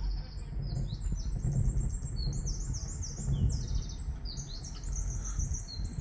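Songbirds chirping and singing in quick, overlapping phrases, over a steady low rumble.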